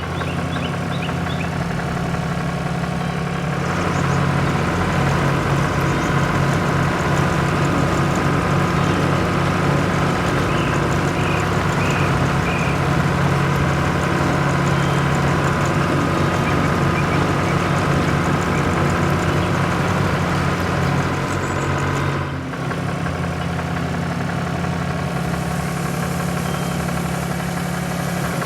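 A farm vehicle's engine running steadily with a pulsing low note, as a cartoon sound effect. It grows louder and brighter about four seconds in, and switches abruptly to a slightly different engine sound about 22 seconds in.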